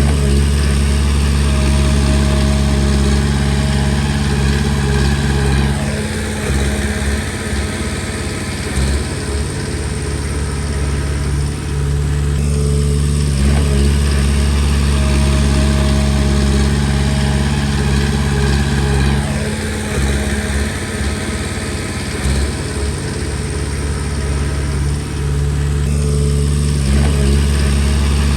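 Komatsu D20P bulldozer's diesel engine running, switching back and forth between a steady hum and a rougher, uneven sound about every six to seven seconds, with the pitch shifting at each change as the dozer works.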